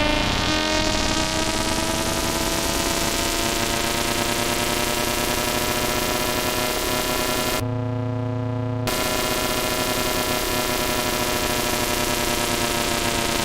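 DSI OB-6 analog synthesizer holding a dense, buzzy tone mixed with noise, a patch in progress for a flyby sound effect. About eight seconds in it drops for about a second to a dull low tone, then the full bright sound comes back.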